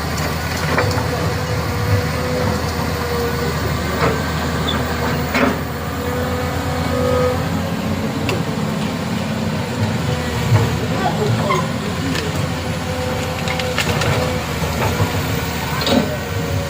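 A motor vehicle's engine running steadily, with a few sharp clacks and knocks scattered through it.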